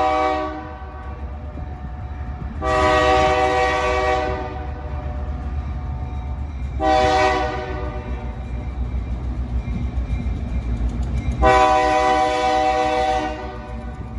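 A Georgia Northeastern Railroad diesel locomotive's multi-chime air horn sounds the grade-crossing signal. The blasts go long, long, short, long, the first one already ending about a second in, over the locomotive's steady low engine rumble.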